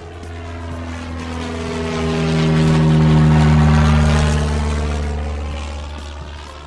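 Propeller aeroplane flying past: its engine drone swells to a peak about three seconds in and then fades away, dropping slightly in pitch as it passes.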